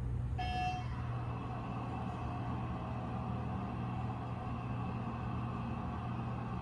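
KONE elevator chime sounding once, a short single ding about half a second in, over the steady low hum of the elevator.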